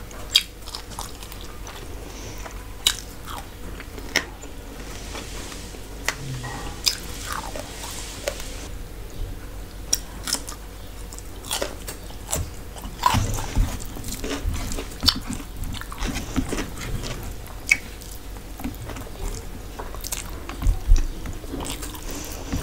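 Close-miked eating: a person chewing and crunching mouthfuls of rice and fried food, with irregular sharp mouth clicks and smacks. Two dull low thumps stand out, one past the middle and one near the end.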